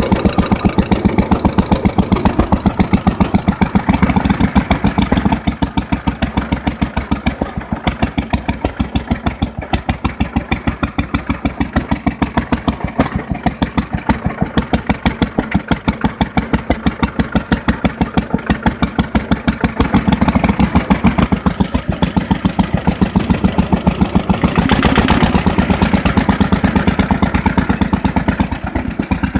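Vintage Bernard R3 stationary petrol engine running steadily, with an even, rapid beat of firing strokes.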